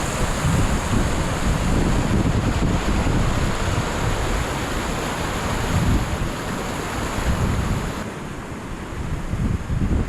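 Wind buffeting the microphone: a loud, steady rush with gusting low rumble.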